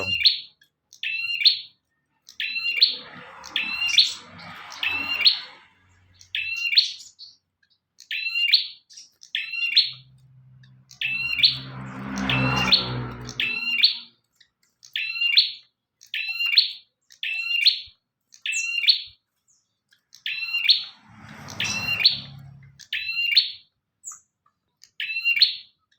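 Bar-winged prinia calling: short, sharp chirps in quick pairs and triplets, repeated about once a second. A low rumble swells and fades a few times underneath.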